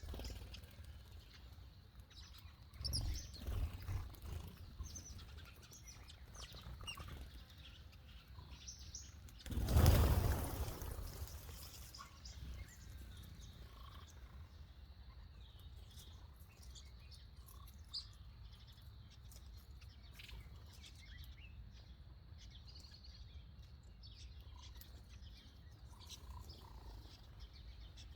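Small birds chirping and twittering in short, high calls. A loud rush of noise lasts about two seconds, starting some nine and a half seconds in, and a weaker, patchier one comes around three seconds in.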